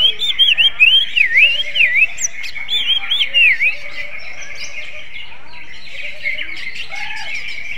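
Green leafbird (cucak ijo) singing a rapid run of loud, swooping whistled notes for about three and a half seconds, in a song styled like an oriental magpie-robin's (kacer). A continuous chatter of other small birds chirping runs behind it.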